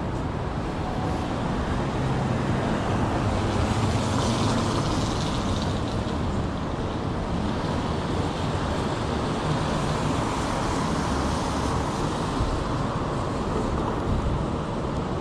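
City street traffic noise: a steady wash of cars and engines, swelling a few seconds in as a vehicle passes close by.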